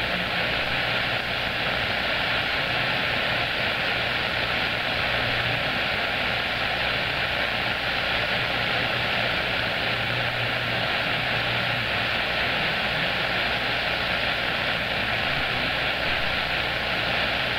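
CB radio receiver hissing with steady static on an open channel between transmissions, with a faint steady tone under the hiss.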